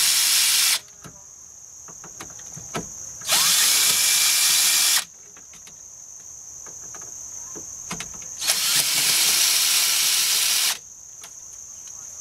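Power drill run in three bursts of about two seconds each, the first cutting off under a second in, the others a few seconds apart, with small clicks of handling between bursts.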